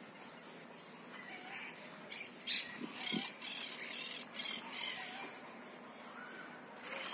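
A bird squawking: a quick run of about eight harsh calls, starting about two seconds in and ending around the fifth second.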